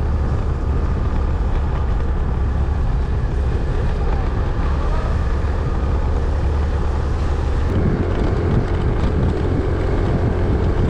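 Small motorbike engine running steadily while riding, with wind rushing over the microphone; about eight seconds in, the engine note changes to a steadier, higher hum.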